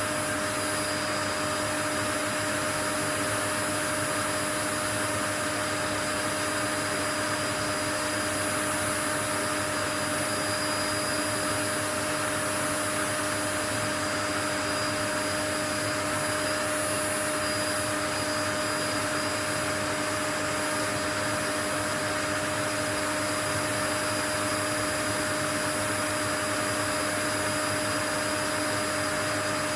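Continuous white noise: an even, unchanging hiss with a steady machine hum running under it, like a motor running at constant speed.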